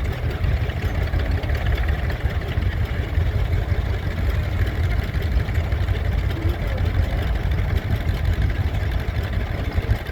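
Diesel engine of a vintage crawler dozer running steadily, a continuous low rumble.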